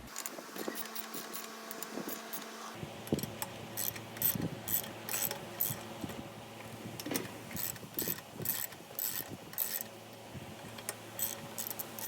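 Hand tools on metal: a ratchet wrench clicking in short, irregular runs, mixed with small metallic taps, as bolts are worked on the mower.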